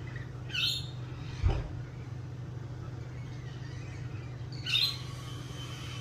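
Two short, harsh bird calls about four seconds apart, over a steady low hum. A dull thump about a second and a half in is the loudest moment.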